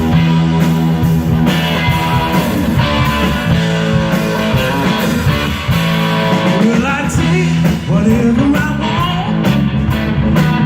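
Rock music led by a 1960 Gibson Les Paul Standard electric guitar playing a riff over bass and drums, with a voice singing from about two-thirds of the way through.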